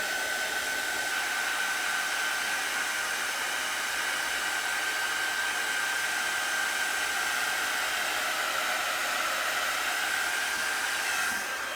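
A hand-held hair dryer blowing steadily with a constant whine, drying the damp transfer. It is switched off near the end, and the whine drops away as it winds down.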